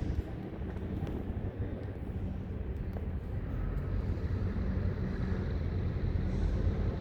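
Heavy diesel engine of a Hitachi 870 excavator running steadily, getting a little louder in the second half.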